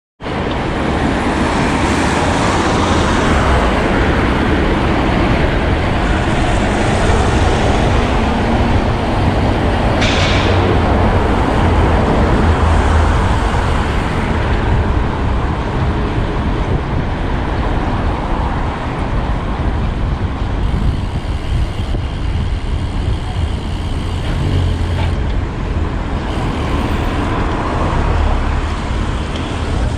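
City street traffic heard from a moving road bike: a steady rush of road and vehicle noise with a strong low rumble, and a brief high-pitched squeal about ten seconds in.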